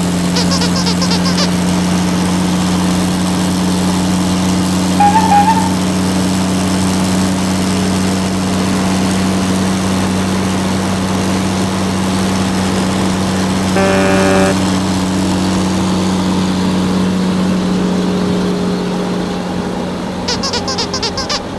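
Steady idling truck-engine drone with no change in speed, of the kind laid onto toy-truck videos as a sound effect. Two brief tones sound over it, about five and about fourteen seconds in.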